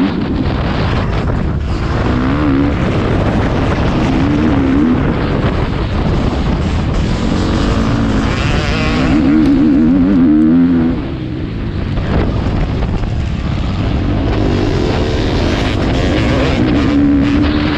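Motocross bike engine under hard riding, its pitch rising and falling as the throttle is worked, over a constant rush of noise. It eases off briefly a little past the middle, then picks up again.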